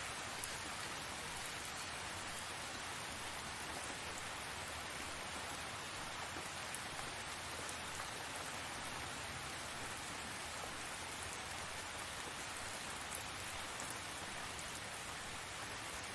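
Steady rain falling, an even hiss of many drops with a few sharper single-drop ticks now and then.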